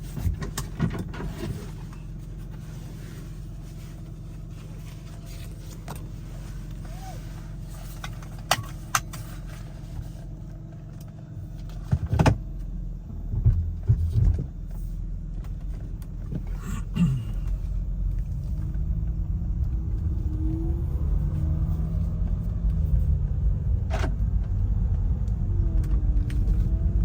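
2006 Mercedes-Benz SLK350's 3.5-litre V6 idling steadily shortly after a cold start, with a few sharp clicks and knocks about halfway through. Then the car pulls away and drives slowly, the engine note rising and falling and the road noise growing louder.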